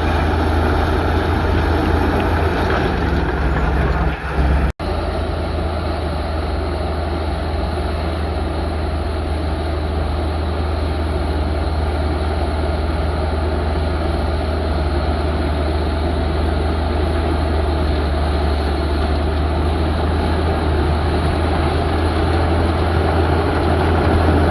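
Heavy diesel engine of earthmoving machinery running steadily, with a strong low drone, broken off for an instant about five seconds in.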